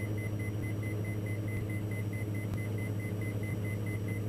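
Steady drone of a Diamond DA42 NG's engine heard through the headset intercom, with a high electronic warning beep pulsing rapidly and evenly over it.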